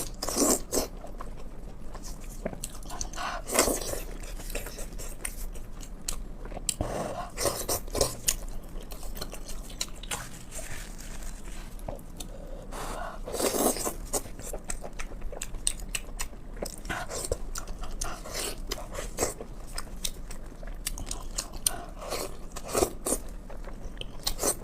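Close-up eating sounds: a person biting and chewing braised pork belly, sharp wet mouth clicks coming in irregular spells with short pauses between.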